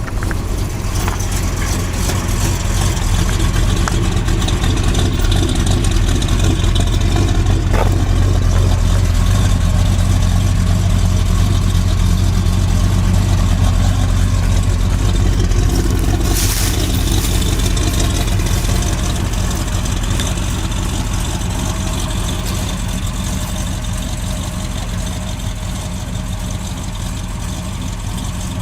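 1978 Ford Bronco's engine running steadily at idle after a cold start, having sat unused for a couple of months. About sixteen seconds in there is a brief hiss, and the engine settles a little quieter after about twenty seconds.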